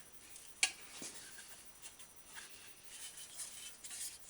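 A few light taps and clicks of hand tools and a metal fender being handled and positioned, with one sharper tap just over half a second in.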